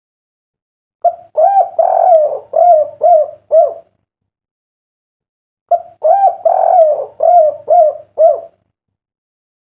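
Derkuku dove cooing its 'kuk 3' song: two phrases of about seven rolling coos each, with a pause of roughly two seconds between them.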